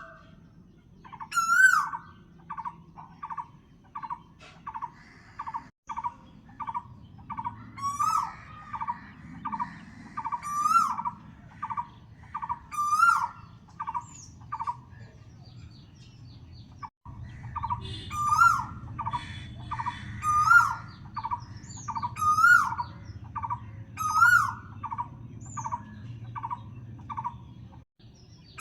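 Birds calling: a steady run of short, evenly spaced notes about two a second, with a louder wavering call breaking in every couple of seconds.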